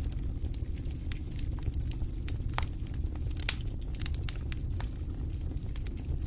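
Fireplace fire crackling: a steady low rumble of the flames with many sharp pops and snaps, the loudest about three and a half seconds in.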